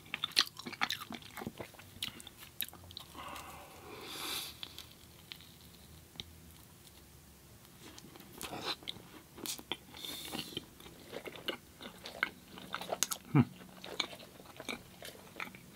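A person chewing and biting food close to the microphone, with irregular wet mouth clicks and smacks and a brief louder swish about four seconds in.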